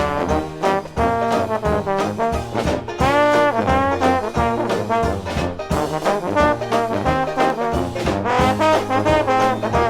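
Dixieland jazz band playing an instrumental passage from a vinyl LP, brass horns to the fore over a walking bass line.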